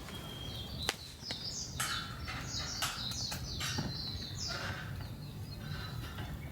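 A wild bird calling a quick run of short notes, each falling in pitch, for a few seconds. Two sharp clicks come just before it, over a steady low background noise.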